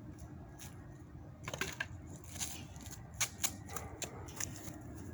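Small wooden sticks and twigs clicking and knocking as they are handled and laid down on concrete to build up kindling. The clicks are irregular, with a cluster about a second and a half in and another around three seconds in.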